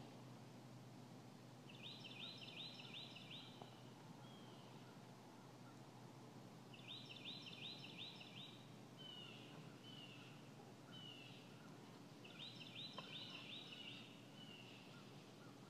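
A songbird in quiet woods singing a short phrase of quick repeated high notes three times, about five seconds apart, with a few softer slurred notes after each phrase.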